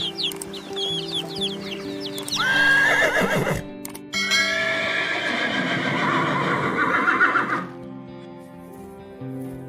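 Horse whinnying twice: a short neigh about two and a half seconds in, then a longer, wavering whinny from about four to seven and a half seconds. High chirps come before the neighs, and background music plays throughout.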